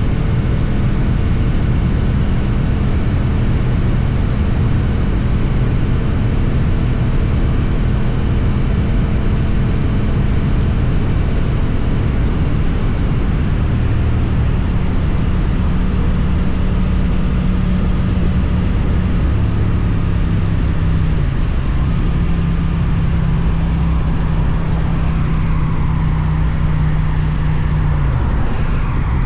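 Suzuki GSX-8TT motorcycle engine through an Akrapovič exhaust, running at steady riding revs. Its pitch shifts a few times, dipping briefly about two-thirds of the way through and dropping near the end.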